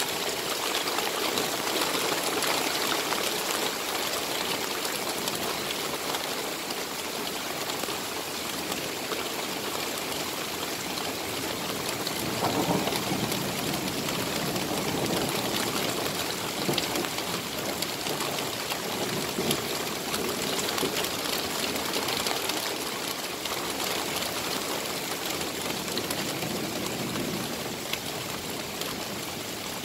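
Torrential rain falling steadily, a dense even hiss, with a fuller, deeper swell about twelve seconds in.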